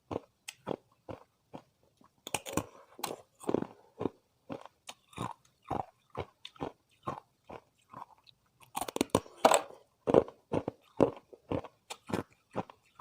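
Thin ice disks being bitten and chewed, with sharp crunches at about two a second. Twice the crunching thickens into a dense crackling cluster.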